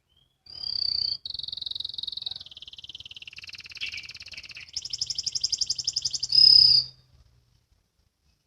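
Domestic canary singing one song phrase: a clear held whistle, then a run of trills at stepping pitches, a fast rapid trill, and a loud whistle to finish.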